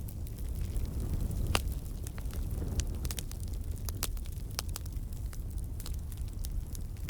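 Campfire burning: a steady low rumble of flames with irregular crackles and sharp pops from the wood, the loudest pop about a second and a half in.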